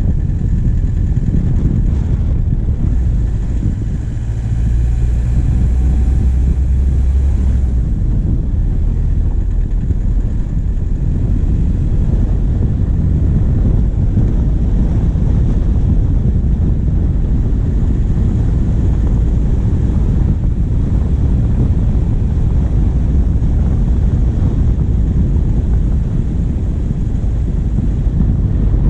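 Diesel vehicle engine running steadily while driving, heard close up from a bonnet-mounted camera, with wind buffeting the microphone. The low rumble swells for a few seconds about five seconds in.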